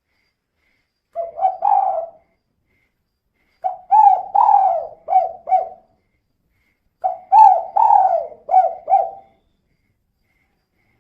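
Female spotted dove cooing: three phrases of quick repeated coos a couple of seconds apart, the first short and the other two longer.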